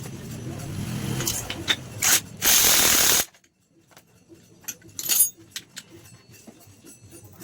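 Ratchet wrench clicking and metal tools knocking on engine parts. About two and a half seconds in, a loud hiss lasts under a second and cuts off sharply; after it come scattered, quieter clicks.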